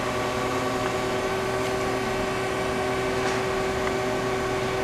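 Steady hum of a powered-up Citizen CNC Swiss lathe standing idle, with several held tones, some higher-pitched, over a low even drone.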